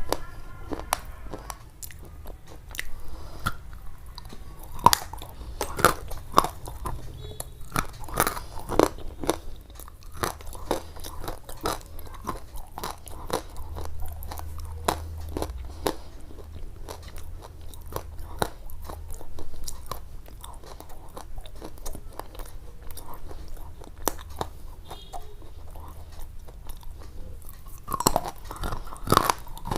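Chewing and biting into something crisp, a dense irregular run of sharp crunches and clicks.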